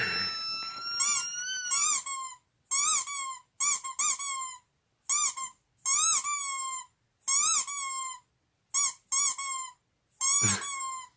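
Recorded puppy crying sound effect played back: a string of short, high-pitched whimpering whines, each bending up and then down, about a dozen in all with silent gaps between them.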